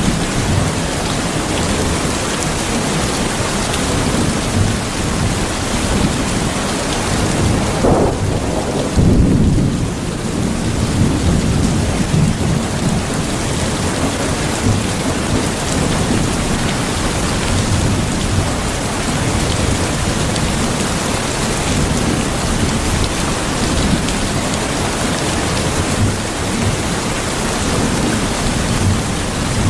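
Steady heavy rain with thunder rumbling low underneath, swelling to a louder roll of thunder about nine seconds in.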